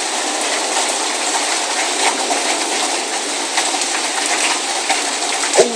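Rain falling steadily, a constant even hiss. One short sharp click near the end.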